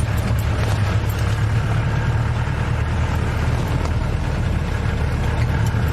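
Safari vehicle's engine running with a steady low hum, which steps up in level right at the start.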